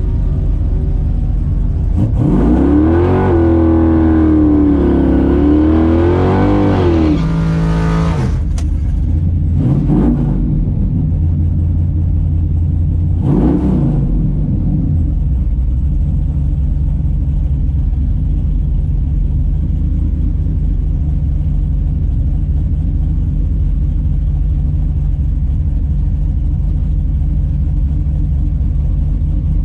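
Big-block V8 drag car engine at full throttle for about six seconds. Its pitch climbs, dips once and climbs again, then drops back to idle. Two brief revs follow, and then it idles steadily.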